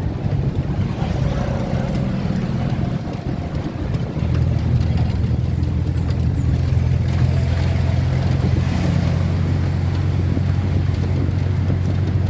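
A road vehicle running at a steady speed: a low engine drone with tyre and road noise. The drone eases briefly about three seconds in, then settles back steady and a little louder.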